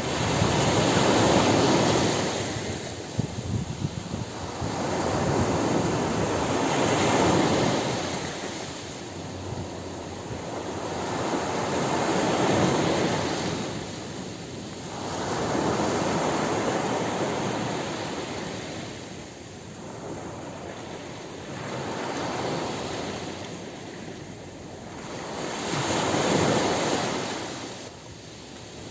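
Ocean surf: waves breaking on a beach one after another, each a swell of rushing noise that rises and fades, about six in all, every four to six seconds.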